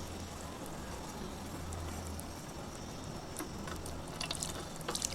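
Burnt clay soaking up water: a faint steady fizz with small scattered crackles, and a cluster of sharper clicks and pops about four seconds in.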